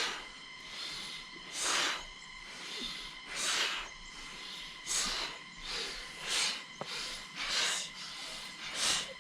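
Sharp, forceful breaths through the nose, short hissing puffs repeated about once a second in an uneven rhythm, as in a yoga breathing exercise.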